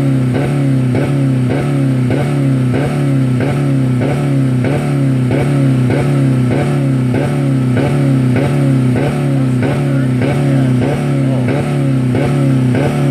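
2000 Dodge Neon's four-cylinder engine held flat out against its rev limiter, the note rhythmically cutting and recovering about twice a second as the limiter cuts in. The engine is running with no oil or coolant left in it.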